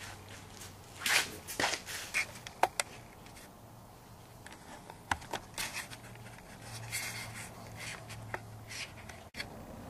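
Handling noises as a small melting furnace is moved and repositioned: scattered light knocks and scrapes, several in the first few seconds and a few more around the middle.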